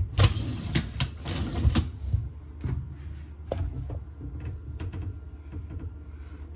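The door of a GE GLDA696P03SS dishwasher being moved on its hinges, two scraping, squeaky strokes in the first two seconds, then a few light clicks and knocks. The door's hinges squeak.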